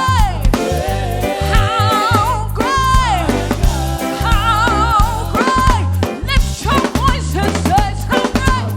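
Live reggae gospel band playing with a strong bass and beat, with wavering melodic lines over it that sound like singing.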